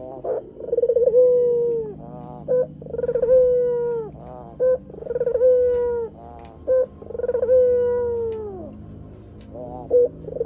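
White Barbary dove (puter) cooing over and over: four long coos, each starting with a quick rolling trill, holding one note and dropping away at the end, with a short clipped note after each.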